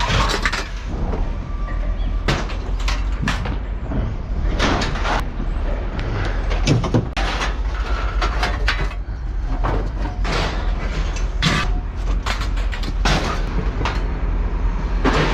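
Irregular clanks and bangs of scrap metal being tossed out and landing, over a steady low rumble.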